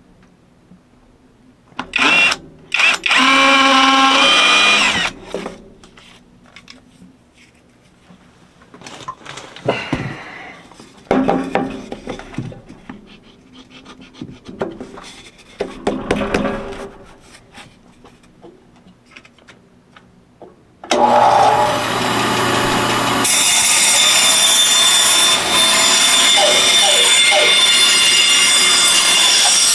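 Light knocks and handling of a wooden board, with a brief whine near the start. About two-thirds of the way through, a woodworking power tool starts suddenly and runs steadily on the wood.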